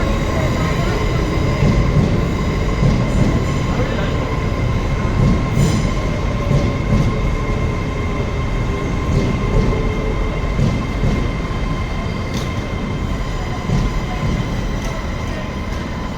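A train running through the station: a continuous low rumble with a steady high whine held at two pitches and a few sharp clicks, easing slightly toward the end.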